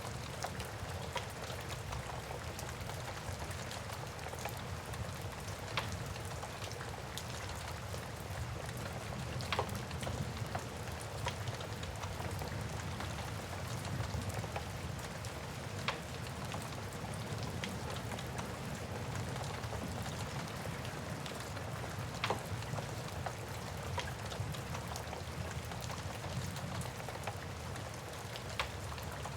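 Steady rain with the sharp crackles and pops of a burning wood fire, a pop every few seconds over a low, even fire rumble.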